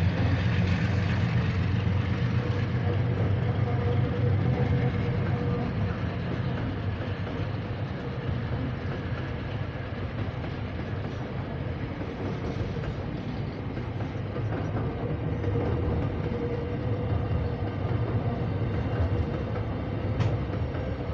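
Freight train's container wagons rolling past as the train pulls away, with the diesel locomotives' low rumble loud at first and easing after about five seconds. A single sharp clank near the end.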